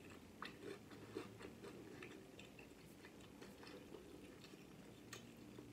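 Faint chewing of flour-tortilla pizza: soft, irregular mouth clicks and small crunches, over a low steady hum.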